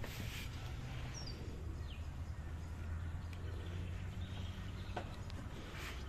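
Bush ambience: a few short, high, falling bird chirps about one and two seconds in, over a steady low rumble.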